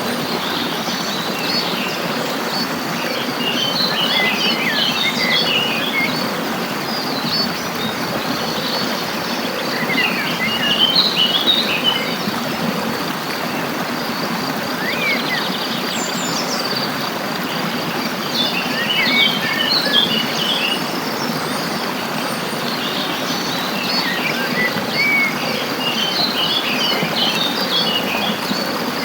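Small songbirds chirping and twittering in short clusters every few seconds over a steady rush of flowing stream water, with a thin, steady high insect trill underneath.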